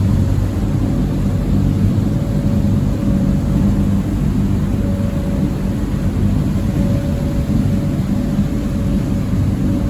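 Small passenger ferry's engines running steadily at cruising speed: a low, even drone with a faint tone that comes and goes, under a steady rush of wind and water.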